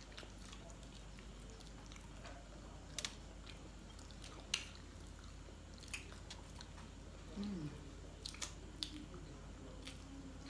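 Close-up mouth sounds of people chewing cold French fries, with a handful of sharp, wet smacks and clicks from lips and fingers spread through.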